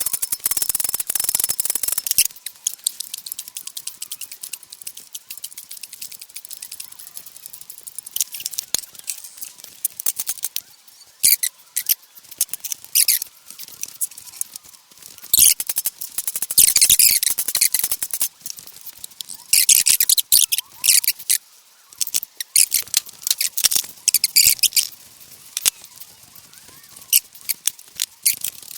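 Hand tools and metal parts clicking and clinking in irregular runs of sharp, quick clicks, as cylinder heads are fitted onto a flathead Ford V8.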